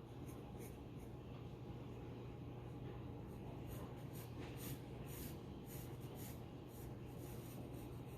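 Graphite pencil scratching on paper in many short, irregular strokes, over a low steady hum.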